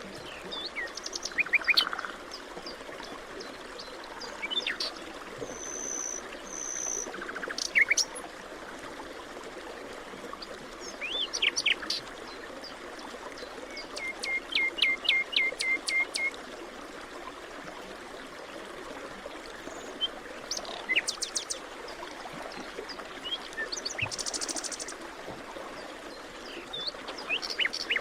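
Forest birds calling and singing: scattered chirps and whistles from several birds, with a quick run of about eight repeated notes near the middle and a short buzzy call later, over a steady background hiss.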